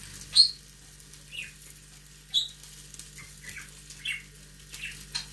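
A small bird chirping: short, high chirps about once a second, a couple of them louder than the rest, over a low steady hum.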